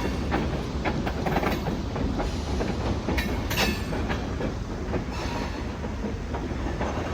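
A short freight train rolling along the track, a steady rumble with irregular sharp clacks of the wheels on the rails.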